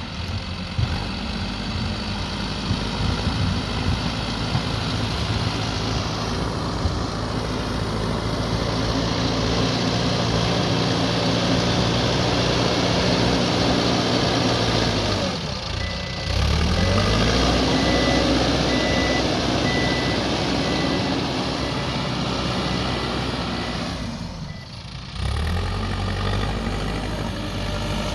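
Backhoe loader's diesel engine running under load. Its pitch drops and climbs back twice. From about halfway through, a reversing alarm beeps repeatedly.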